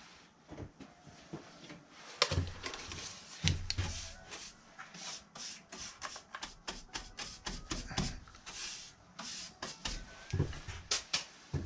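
Irregular knocks, taps and scraping of things being handled and set down, with heavier thumps about two, three and a half, eight and ten and a half seconds in.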